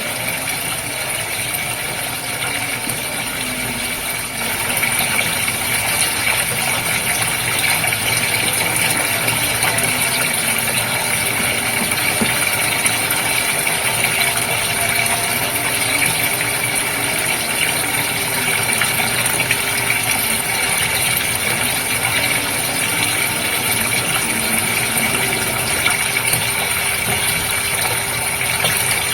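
Goldfish aquarium water running and bubbling steadily, with a faint steady hum underneath. It gets a little louder about four seconds in.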